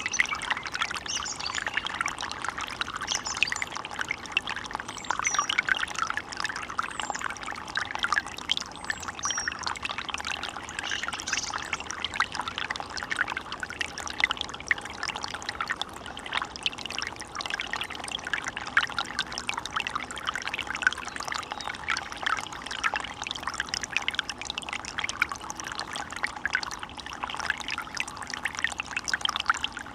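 Small stream running with a steady trickling, bubbling babble of water.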